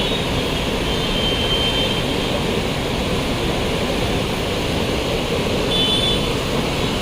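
The swollen Ganga rushing in flood, a loud steady roar of water. Two brief faint high tones sound over it about a second in and near the end.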